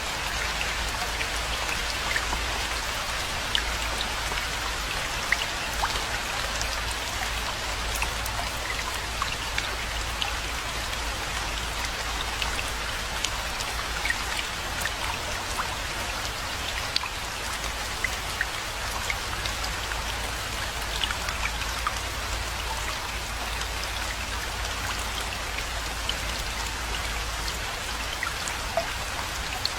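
Steady rainfall: a dense, even hiss with many distinct drop hits scattered through it, over a steady low rumble.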